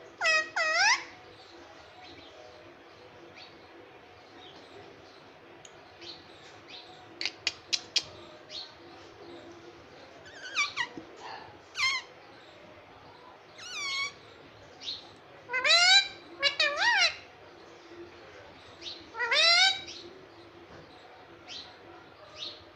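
Green ringneck parrot calling in short, upward-gliding squawks that come in clusters several times, with a few sharp clicks in between.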